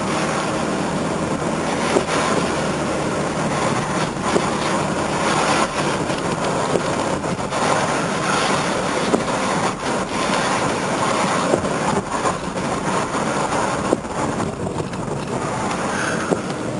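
Car driving along wet streets after a storm: steady road and tyre noise, with many scattered clicks and knocks.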